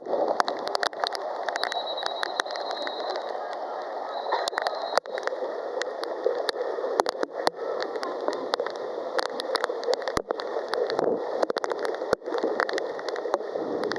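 Heavy tropical downpour driven by strong wind: a steady rush of rain noise with many sharp ticks and knocks scattered through it.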